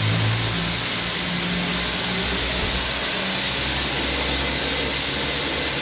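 High-pressure washer jet spraying water onto a car in a steady loud hiss, with the low steady hum of the washer's pump motor underneath.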